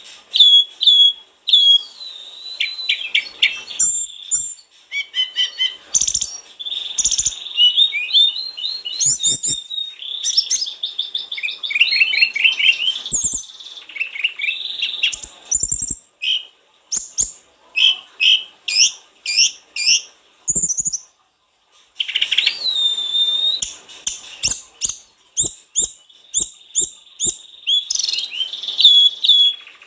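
Mountain tailorbird (sulingan gunung) singing a long, varied series of high thin whistles and fast chirping trills, with a short break about two-thirds of the way through.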